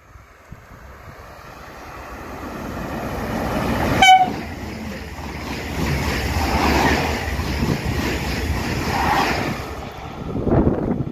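A double-deck electric passenger train approaching and running through the station. Its noise builds steadily, and about four seconds in a short horn blast sounds, the loudest moment. The rush and rumble of the cars going past follows and drops away near the end.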